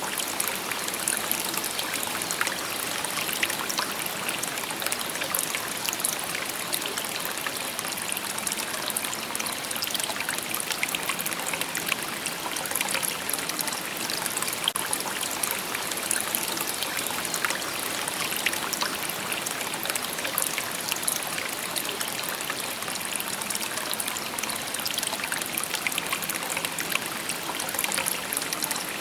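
Shallow river babbling and trickling over stones, a steady rush with many small splashes.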